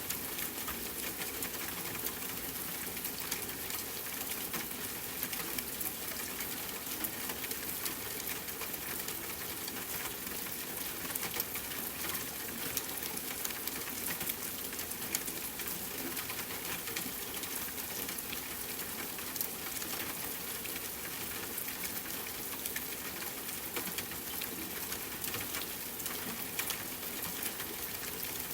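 Steady rain hissing, with many small irregular clicks and pops from a crackling campfire mixed in.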